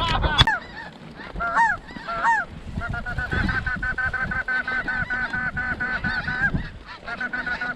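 Snow geese honking: two single high, arched honks, then a long run of rapid, evenly spaced calls. A brief sharp crack comes just after the start.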